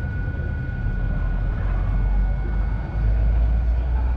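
Ford Deluxe flathead V8 engine running with a steady low rumble that swells slightly a few seconds in.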